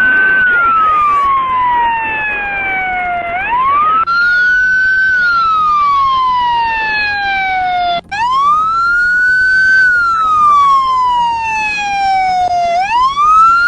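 Police siren on the wail setting: the pitch sweeps up quickly, then falls slowly, about three times at roughly four-second intervals. It cuts out for an instant about eight seconds in, then starts its climb again.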